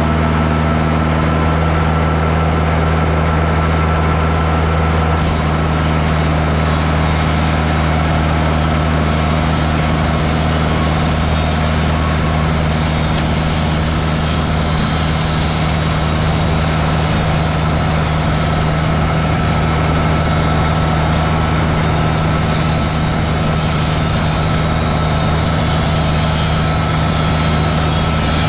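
Portable band sawmill running steadily under its engine while the band blade cuts through a white cedar log; a higher sawing hiss comes in about five seconds in and carries on.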